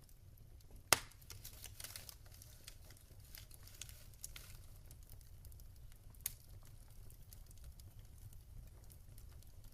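Wood fire crackling in a fireplace: scattered sharp pops and snaps over a low steady rumble of flame, with a loud pop about a second in and another about six seconds in.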